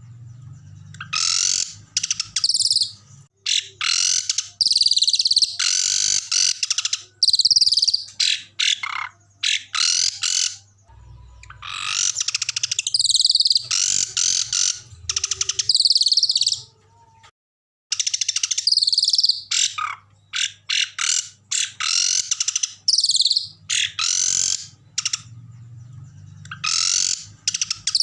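Recorded small songbirds singing loud, harsh, high-pitched trills and rapid chatter in bursts of a second or two, separated by short gaps, over a faint low hum.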